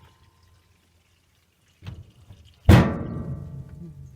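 A light knock, then a sharp, loud knock a second later that rings and fades out over about a second and a half.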